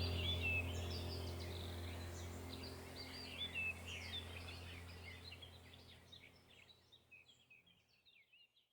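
Wild birds chirping and trilling in quick, high, overlapping notes over a low steady hum, the whole fading away over the last few seconds.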